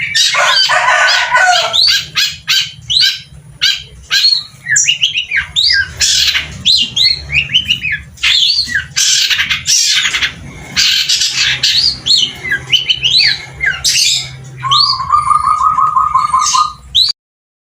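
Long-tailed shrike (cendet) singing non-stop, a varied stream of quick chirps and whistled sweeps taken from other birds' songs, broken by harsh rasping calls. About fifteen seconds in it gives a fast run of lower repeated notes.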